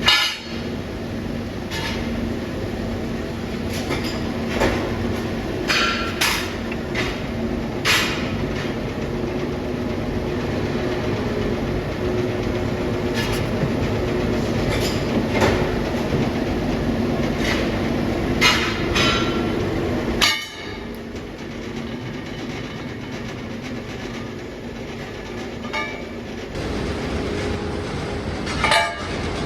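Metalworking machinery running with a steady hum, with scattered sharp metal knocks and clanks. The sound changes abruptly about twenty seconds in and again a few seconds later.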